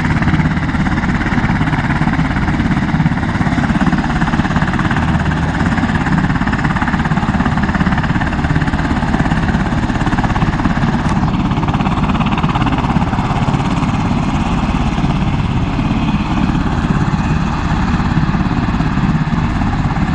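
Turbine aircraft engine running steadily at close range, a dense rumble with a high whine over it; a faint whistle falls sharply in pitch about eleven seconds in.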